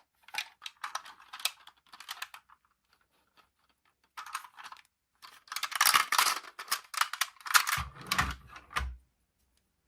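Crackling and clicking of toy packaging being handled and opened, in irregular bursts with short pauses, and a few low thumps near the end.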